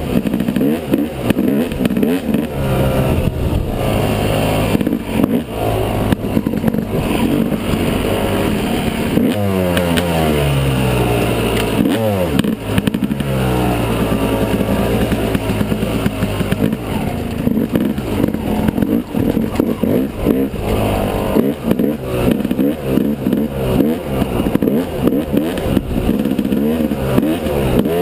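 Yamaha 250 dirt bike engine running under way, revving up and down with the throttle; about ten seconds in the pitch drops for a couple of seconds as it slows, then climbs again.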